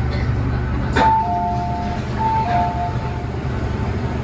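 An MTR M-train's onboard two-note falling chime sounds twice, the second time shorter, after a click about a second in. Under it runs the train's steady low hum.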